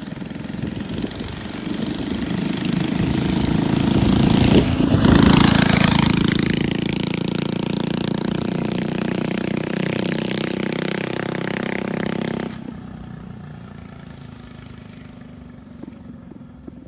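Loud Coleman CT100 mini bike with an aftermarket exhaust and air filter, its small single-cylinder four-stroke engine riding by. It grows louder to a peak about five seconds in, runs steady at speed, then drops off suddenly about twelve seconds in to a quieter engine sound.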